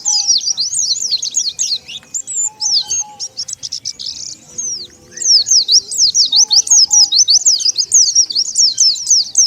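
A flock of white-eyes (pleci) twittering: rapid, high-pitched chirps and quick swooping notes packed close together, thinning briefly about halfway, as used for a lure call to draw wild white-eyes.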